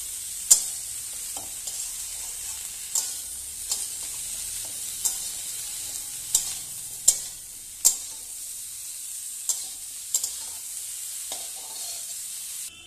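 Steamed potato and cauliflower pieces sizzling as they fry in oil in a metal wok, while a metal spatula stirs them and clinks sharply against the pan every second or so. The sizzling cuts off abruptly near the end.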